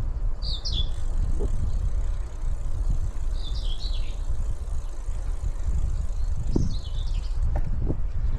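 Steady low rumble of a bicycle ride, wind on the microphone and tyres rolling, with a few light knocks. Small birds chirp in short high bursts three times: about half a second in, around three and a half seconds, and near seven seconds.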